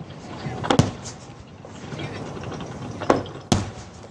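Fireworks shells bursting as sharp, separate reports: a close pair just under a second in, then two more about three seconds in, half a second apart.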